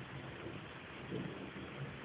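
Steady hiss of rain during a thunderstorm, recorded through a low-quality phone microphone.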